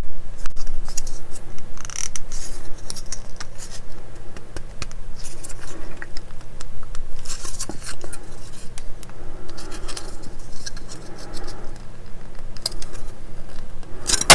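Small plastic model-kit parts being handled and fitted together by hand: scattered light clicks, taps and scratching of plastic on plastic.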